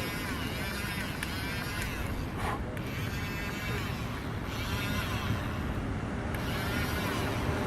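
Steady low rumble of a vehicle engine or nearby traffic, with faint, higher, repeating trills coming and going over it.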